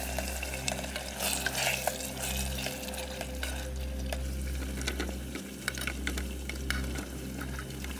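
Onion-tomato masala sizzling in a pot on a camping gas stove, stirred and scraped with a wooden spatula in many small scrapes and clicks. Near the end, chopped vegetables are tipped into the pot.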